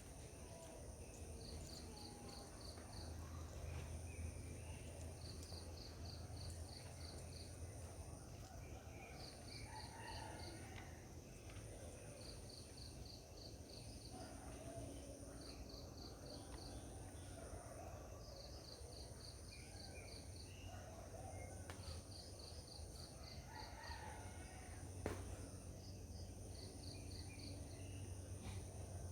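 Birds and insects calling: a short burst of rapid high chirps repeats every two to three seconds over a steady, pulsing high insect drone, with scattered lower bird calls and a low rumble underneath. A single sharp click comes about 25 seconds in.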